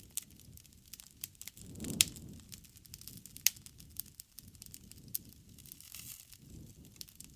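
Bonfire crackling: burning wood pops and snaps in many sharp clicks over a low rush of flame. The rush swells about two seconds in and again near six seconds. The loudest pops come about two seconds and three and a half seconds in.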